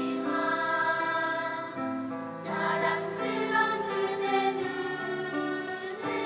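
A children's choir singing a song over music, holding notes that move in steps.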